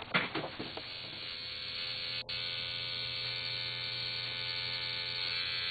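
Electric tattoo machine buzzing steadily, with a very brief break about two seconds in.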